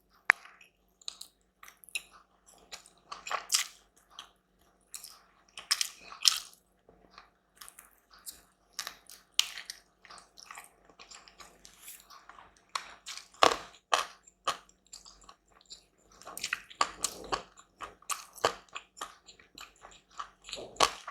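Close-miked eating sounds: food being bitten and chewed, with irregular wet mouth clicks and smacks and a few crunchy bites.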